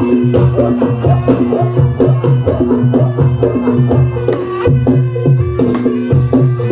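Live Javanese traditional music accompanying a barongan (singo barong) performance: drums and tuned percussion playing in a steady rhythm.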